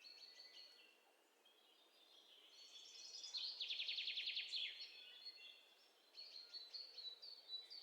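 Faint birds chirping in the background, with a fast trill of repeated high notes about three to five seconds in.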